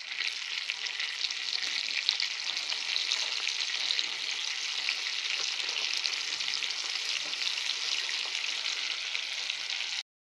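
Crumbed chicken pieces frying in shallow oil in a frying pan: a steady sizzle with fine crackling, cutting off abruptly near the end.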